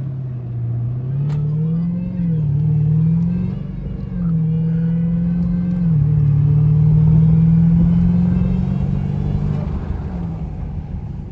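A car engine running and revving, its pitch rising and falling several times, with the loudest stretch about six to nine seconds in.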